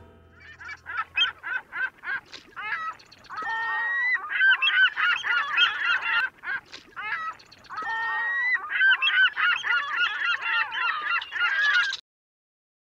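A flock of birds calling, many short calls overlapping one another, with a short lull midway. The calls cut off suddenly near the end.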